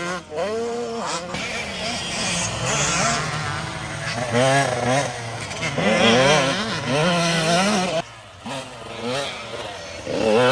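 Dirt bike engines revving up and down as they ride the track, the pitch rising and falling over and over, with a short drop-off about eight seconds in.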